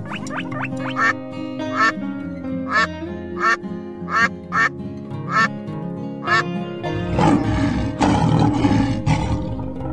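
A duck quacking about eight times at fairly even spacing over background music. About seven seconds in, a louder noisy sound lasting about two seconds takes over.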